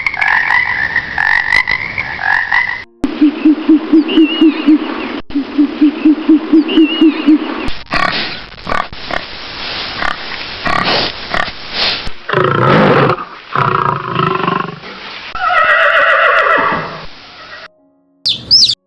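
A run of different animal calls, one recording after another. A wavering call comes first, then a fast, even string of low pulses for about five seconds, then rasping sounds, lower calls, a falling call, and a brief high call near the end.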